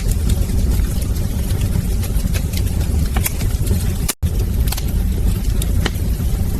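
Wood fire crackling in a fireplace: scattered sharp pops and snaps over a steady low rumble of the flames. The sound drops out for an instant about four seconds in.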